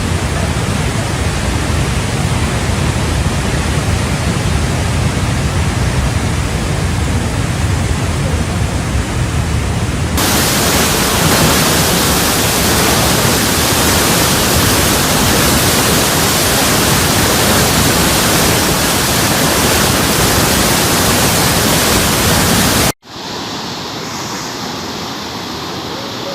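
Dense, steady rush of storm wind and heavy sea. About ten seconds in it turns abruptly hissier, and near the end it cuts off sharply and carries on quieter.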